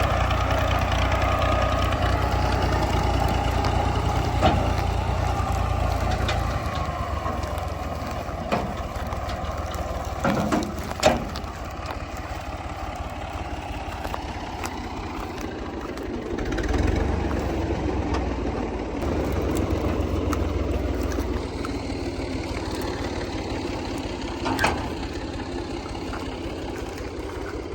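Fiat 480 tractor's diesel engine running, its deep low note fading back about six seconds in and coming up again for a few seconds past the middle, with a few sharp knocks heard over it.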